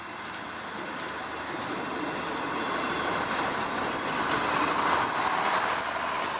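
CPH rail motor running along the line, growing steadily louder to a peak about five seconds in as it draws close.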